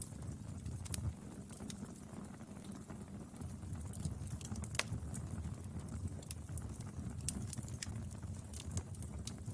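Wood fire burning, with irregular crackles and sharp pops over a low, steady rumble of the flames. One louder pop comes about five seconds in.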